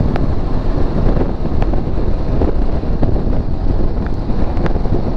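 Heavy wind buffeting on the microphone of a moving motorcycle, a steady low rumble of rushing air and road noise.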